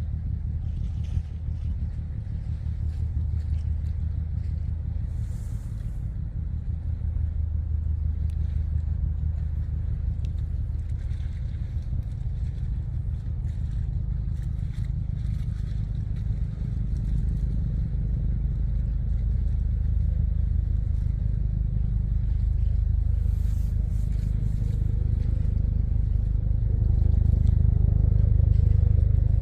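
A vessel's engine droning low and steady, slowly growing louder near the end.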